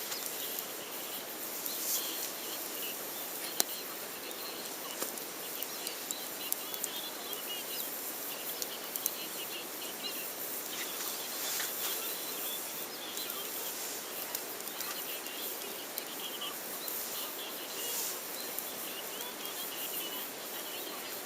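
Campfire crackling, with scattered sharp pops over a steady hiss, and faint chirping in the background.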